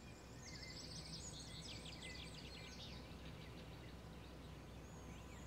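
Faint birdsong: a quick run of high, rapidly falling chirps about half a second in that lasts a couple of seconds, over a low steady background hum.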